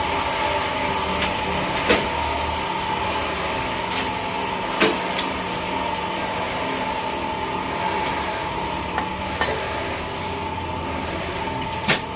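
Sawmill machinery running steadily, with a constant high tone over a low hum and a few sharp knocks of wood or metal.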